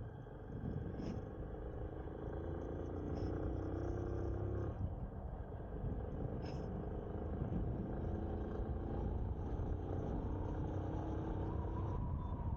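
Motorcycle engine running steadily while the bike is ridden, over a low rumble; the engine note dips briefly about five seconds in.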